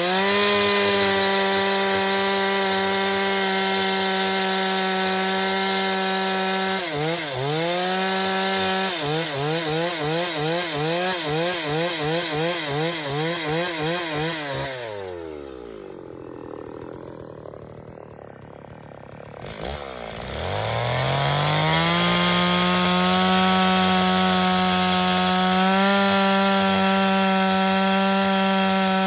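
Chainsaw engine revving up and running at high speed, then from about nine seconds in its pitch dips and recovers about twice a second for several seconds. Around halfway it drops back to a low idle for about five seconds, then revs up again and holds steady at high speed.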